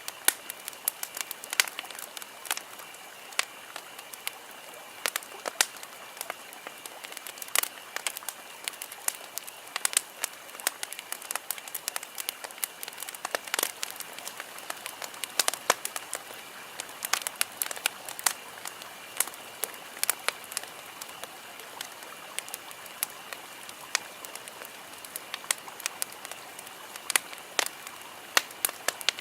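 Campfire wood burning, crackling with irregular sharp pops, several a second, over a faint steady high-pitched background.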